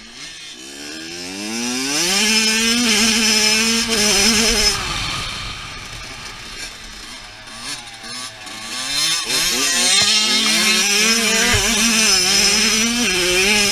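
Dirt bike engine revving up and holding high revs, then dropping off about five seconds in; it revs up again and holds high revs near the end.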